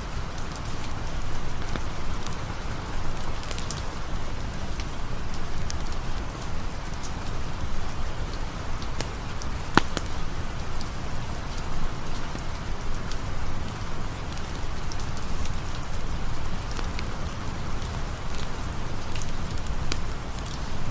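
Steady rain falling, with scattered small ticks and one sharper pop about halfway through.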